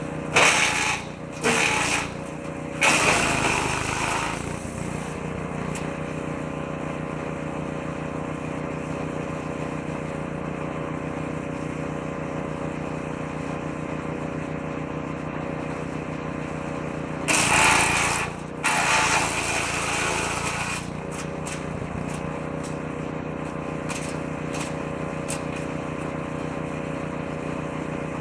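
Petrol-engined woodchipper running steadily, with loud bursts of shredding as branches are fed into the shredder drum a bit at a time. A few short bursts come near the start and a longer one about two-thirds of the way through.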